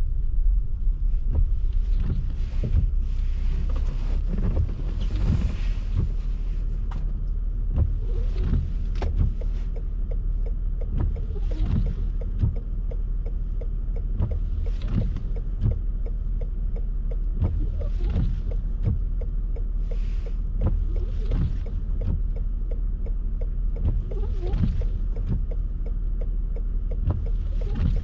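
Steady low road and engine rumble inside a car driving on snowy streets, with windshield wipers swishing across the glass about every two to three seconds.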